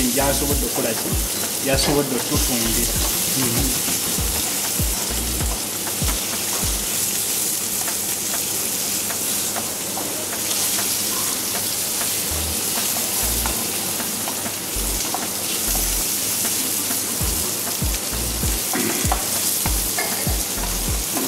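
Sliced carrots, red onion and garlic sizzling in hot oil in a pan, with a steady hiss, while a spatula stirs them, scraping and tapping against the pan many times.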